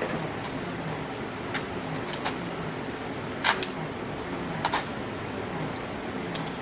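Hand tools working bolts under a car: scattered sharp metallic clicks and clinks, some in quick pairs, as a socket and wrench snug bolts down, over a steady background hiss.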